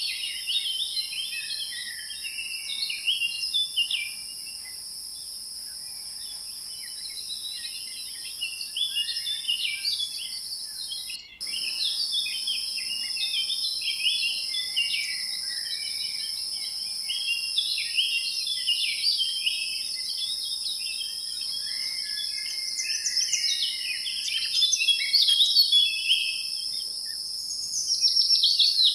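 Dense chorus of small-bird chirps and calls over a steady, high-pitched insect drone, as in a tropical nature soundscape. The sound cuts out very briefly about eleven seconds in.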